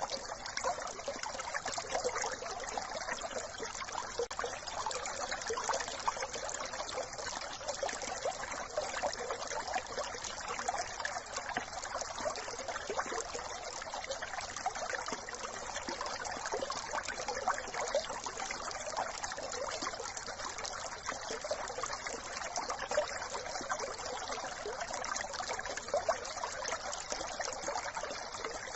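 A small brook trickling and babbling over stones, a steady splashing rush of water with fine bubbling detail.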